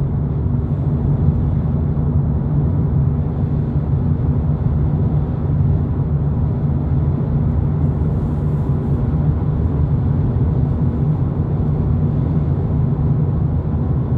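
Steady drone of a 2022 VW Polo GTI with its 2.0-litre turbo four-cylinder cruising on the freeway at a constant 120 km/h: engine hum with tyre and road noise, unchanging throughout.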